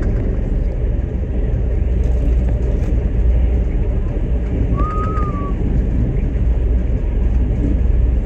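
Steady low rumble of a running vehicle, with a single short high whistle-like tone about five seconds in.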